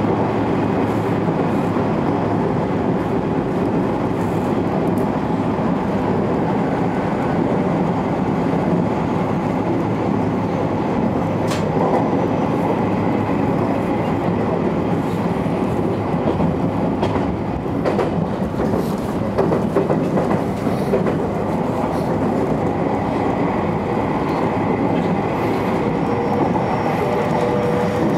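Electric train running at speed, heard from inside the front car: a steady rumble of wheels on rail, with a few sharp clicks along the way.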